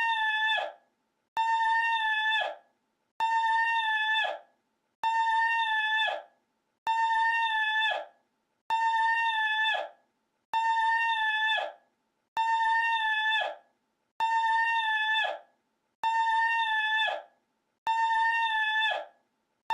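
A short looped meme sound clip: one horn-like cry held on a steady pitch and dropping off at the end, repeated identically about every second and three quarters, some eleven times.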